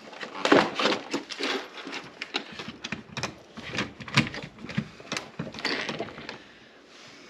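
Irregular clicks, knocks and short rattles of small metal hardware and hand tools being handled, the loudest knock about half a second in.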